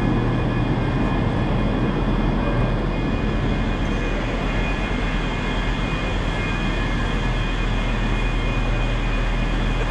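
Steady drone of ScotRail trains standing at the platforms, a constant low hum with faint steady whines above it.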